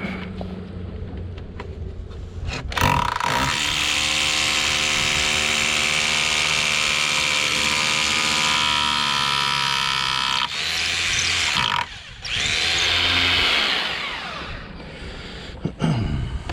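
Electric power drill running under load in two runs: a long run of about eight seconds, then a shorter one after a brief pause. Its pitch dips slightly partway through the first run.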